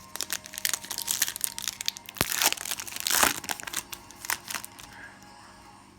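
Crinkling and rustling as hockey trading cards are handled and flipped through, in a quick run of small crackles that dies down near the end.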